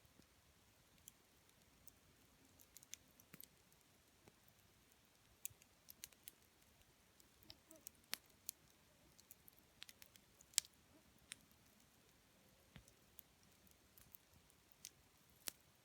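Campfire of burning wood crackling faintly, with sparse, irregular pops and snaps; the sharpest pop comes about ten and a half seconds in.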